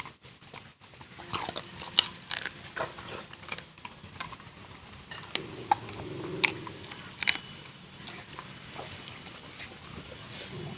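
A dog eating: irregular sharp clicks and crunches of chewing, with a denser, lower stretch of sound about five to six and a half seconds in.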